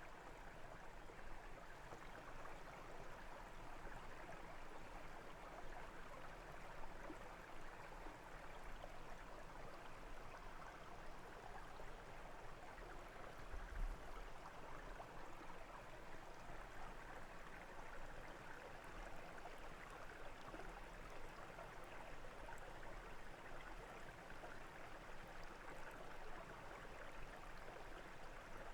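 Brook flowing, a steady rushing babble of water, with one brief low bump about halfway through.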